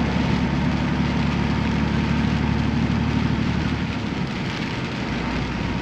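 Semi-truck's diesel engine and road noise droning steadily inside the cab while driving, the low engine hum easing a little about four seconds in.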